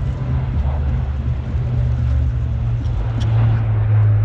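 Military aircraft engines giving a loud, steady low drone, which drops slightly in pitch about three and a half seconds in.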